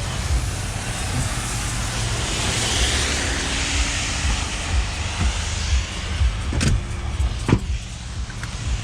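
A vehicle running with a steady low rumble and hiss, and two sharp knocks about two-thirds of the way through.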